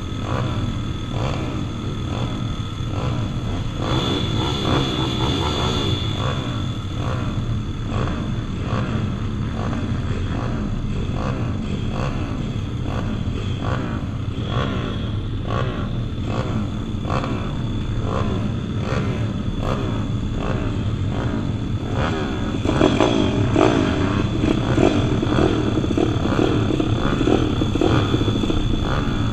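Pit bikes' small single-cylinder four-stroke engines revving and running as they race around a motocross track. The engines swell louder around four seconds in and again from about 23 seconds.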